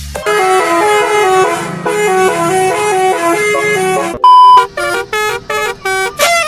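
Telolet bus horn, a multi-tone horn playing a stepped melody of held notes. About four seconds in comes a short, very loud single-pitch beep, followed by short, choppy horn notes.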